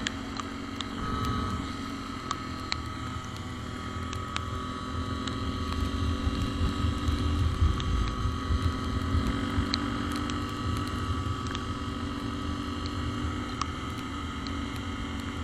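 A small engine running steadily, holding an even pitch, with wind buffeting the microphone.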